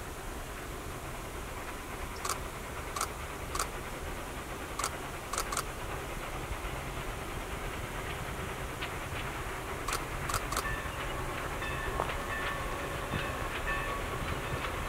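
Distant train approaching on the line: a steady low rumble that slowly grows louder, with scattered sharp ticks and, over the last few seconds, faint high tones.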